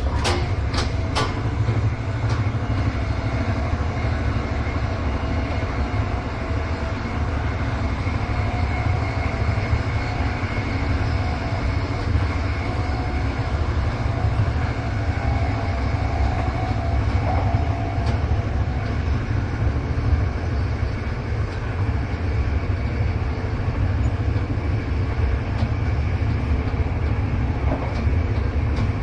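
Inside a moving train carriage: a steady low rumble of wheels running on the rails, with a few sharp rail-joint clicks in the first second.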